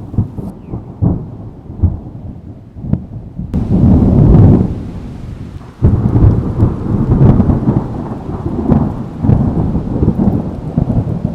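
Thunderstorm: thunder rumbling with rain. The rumble grows loud about three and a half seconds in and surges again suddenly near the middle.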